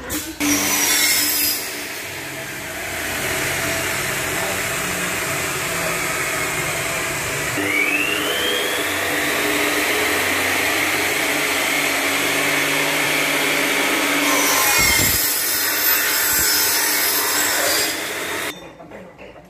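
Aluminium profile cutting saw running, its electric motor spinning the toothed blade with a steady hum. The blade cuts aluminium extrusion with a shrill, high-pitched screech near the start and again over the last few seconds, then the saw stops suddenly.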